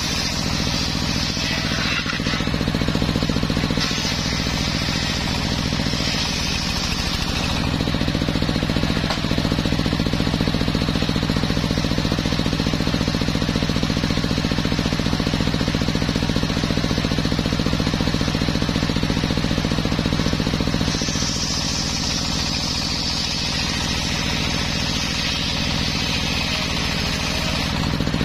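Homemade circular sawmill running with a steady low drone, its blade cutting through a teak log; a higher cutting hiss comes in during the first two seconds, again from about four to seven seconds, and from about twenty-one seconds almost to the end.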